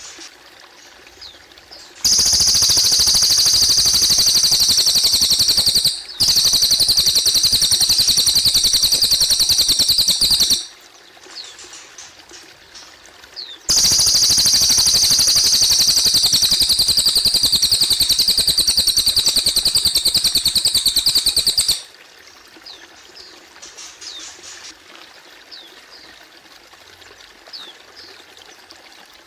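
Cililin bird singing in long, loud bouts of a very rapid, high-pitched trill, the first with a short break in it, the second starting about halfway through and running for about eight seconds. Water trickles steadily underneath, with faint chirps from other birds in the quieter stretches.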